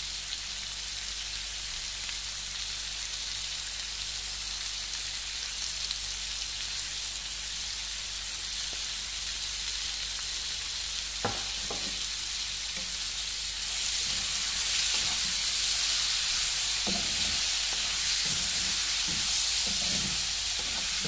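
Lamb liver and green peppers sizzling in a frying pan, a steady hiss that grows louder about two-thirds of the way through. A wooden spatula knocks against the pan a few times in the second half as the food is stirred.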